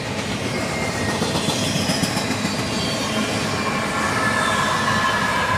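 Freight train cars rolling past with a steady rumble of wheels on rail, with thin, faint wheel squeals that grow clearer near the end. The squeal is light, not a full 'screamer'.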